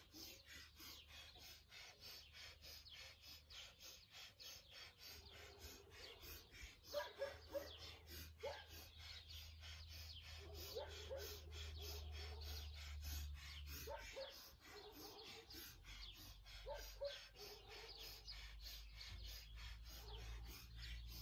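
Faint bird calls: short chirps that come several at a time from about seven seconds in, over a quiet outdoor background with a low steady hum.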